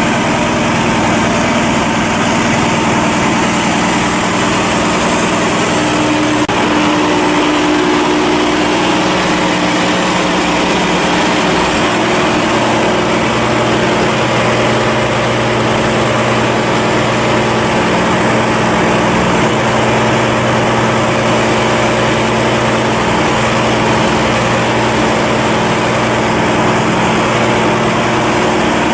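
A ship's engine running steadily at a constant speed, with an even, continuous drone. About six seconds in the sound shifts abruptly.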